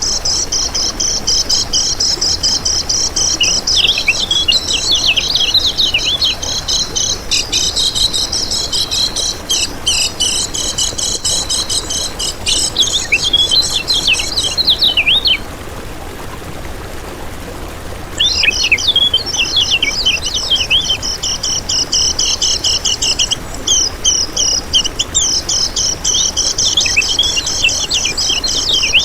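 Kecial kuning songbird singing a fast, continuous high twittering song of rapid chirps and trills. It breaks off for about three seconds past the middle, then resumes.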